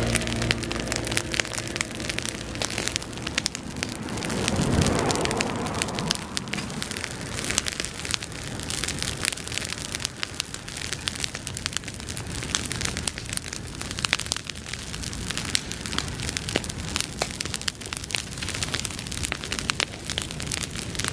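Bonfire of dry grass burning, with dense, continuous crackling and popping. About five seconds in there is a brief, louder rush.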